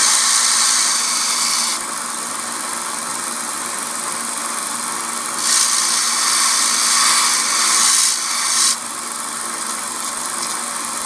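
Belt sander running steadily with a coarse 40-grit belt. Twice a steel knife blade is pressed to the belt, giving a loud grinding hiss: once for about the first two seconds, and again for about three seconds past the middle.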